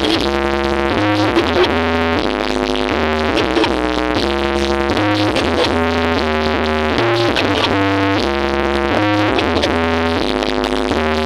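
Loud electronic dance music played through a truck-mounted carnival sound system: synthesizer chords over a deep bass line, changing about every second.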